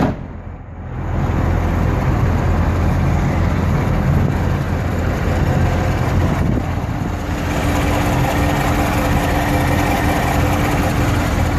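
A 2016 Chevrolet Corvette Stingray's 6.2-litre V8 idling steadily, heard from outside the car as a low, even rumble. It is briefly quieter near the start, and a steady hum joins about halfway through.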